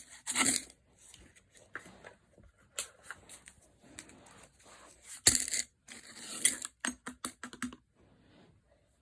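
Coins and their wrappers being handled: scattered light clinks and rustling, with a sharper clack about five seconds in and a busier run of rustles and clicks soon after.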